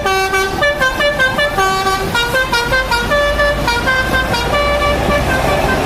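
Multi-tone telolet horn on an Indonesian intercity bus playing a quick melody, its notes stepping from one pitch to the next without a break.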